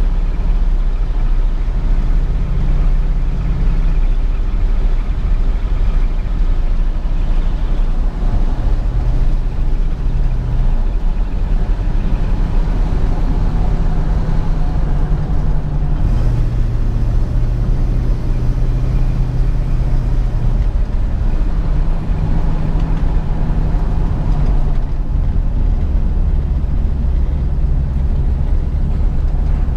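1967 Ford Mustang's 289 V8 running while the car is driven. Its low note steps up and down several times as throttle and speed change, over steady road noise.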